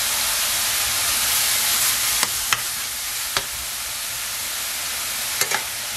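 Grated zucchini sizzling in oil in a stainless steel pan over full heat, a steady hiss that eases slightly after about two seconds. A few sharp clicks come through the hiss a couple of seconds in and again near the end.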